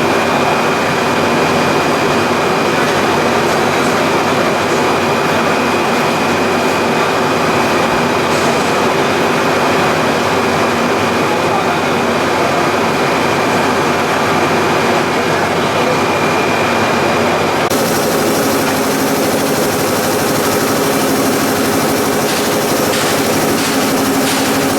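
Loud, steady running noise of plastic pelletizing line machinery (a PE and calcium carbonate compounding line), with a high whine. About eighteen seconds in, the sound changes abruptly and the whine drops out.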